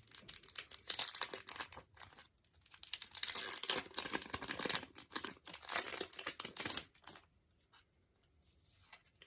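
Packaging being torn open and crinkled by hand, a dense rustle that is loudest around three to four seconds in and stops about seven seconds in.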